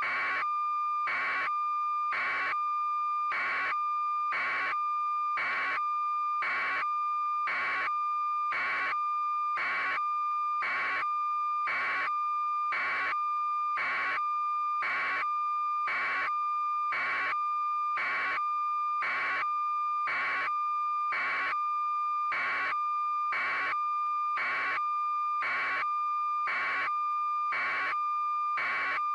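Harsh electronic beep repeating evenly about once a second over a continuous steady tone.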